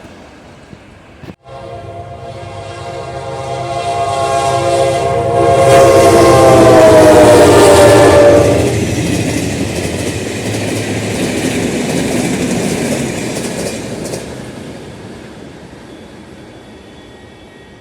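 GE diesel-electric locomotive sounding one long horn blast as it approaches, growing louder and dropping in pitch as it passes. The rumble of the passing train follows and fades away.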